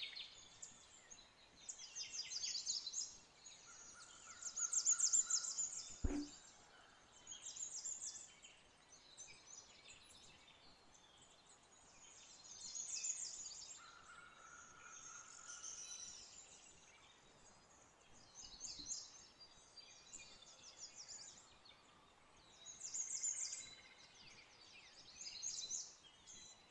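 Birds chirping in short, rapid trilling bursts every couple of seconds, with a single faint click about six seconds in.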